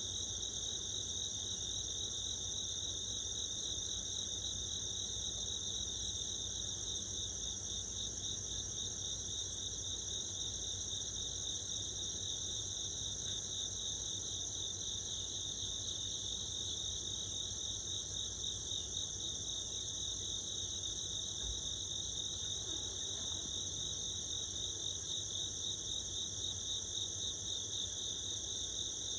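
Steady chorus of crickets and other night insects trilling, as two unbroken high bands of sound, one pulsing finely and one higher and smoother.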